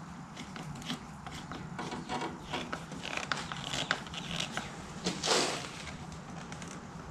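Handling noise from hands working on the tractor's parts: irregular rubbing and scraping with light clicks, and one louder brushing rush about five seconds in.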